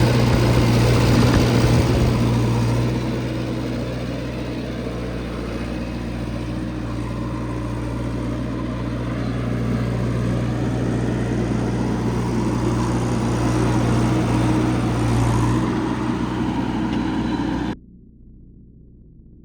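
Heavy diesel engine running steadily, loudest in the first few seconds, easing a little, then building again before it cuts off suddenly near the end.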